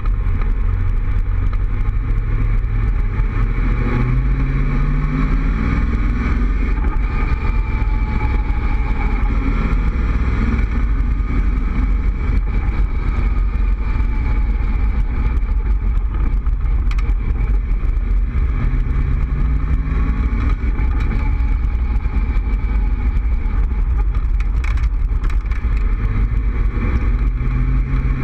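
Open Cobra roadster's engine driving along, its pitch rising as it accelerates about four seconds in and again a little past the middle, under steady wind rush in the open cockpit.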